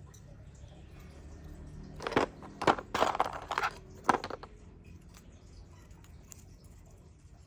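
Hard pieces of agarwood handled and knocking together: a short run of sharp clacks and rattles, the loudest about two seconds in, dying away about four and a half seconds in.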